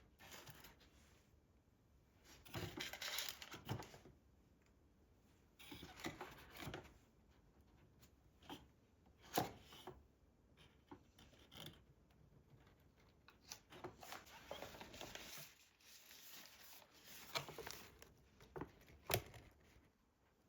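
Quiet handling sounds in a small room: short bursts of rustling and scraping, with a few sharp light knocks or clicks, the sharpest about nine seconds in and near the end.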